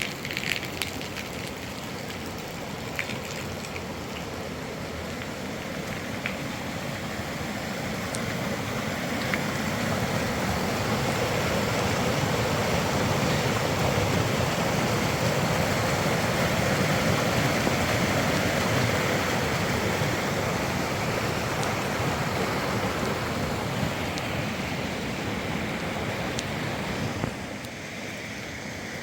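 Heavy rain and wind, a steady rushing that swells louder through the middle and then drops away suddenly near the end.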